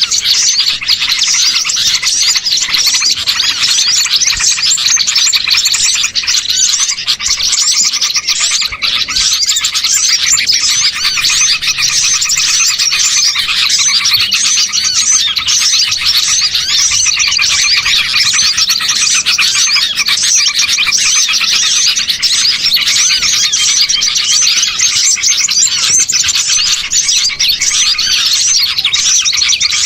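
A bird-lure recording of many small songbirds chirping and twittering at once, as a dense, unbroken chorus of overlapping high calls. Trappers play it to draw small birds in.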